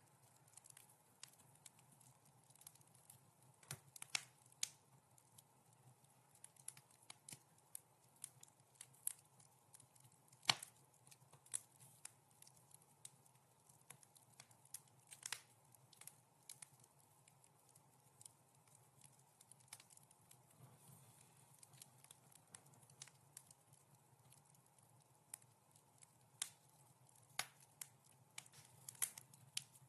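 Wood fire in a fireplace crackling: irregular sharp pops and snaps, a few clearly louder than the rest, over a faint steady hiss. The loudest snap comes about ten and a half seconds in.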